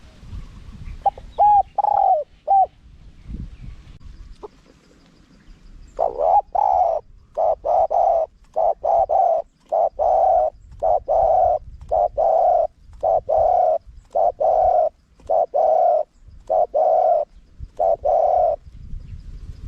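Spotted dove cooing in its high-voiced, wild-type song. A few short coos come about a second in, then a long run of coos follows one another in quick succession from about six seconds in until near the end.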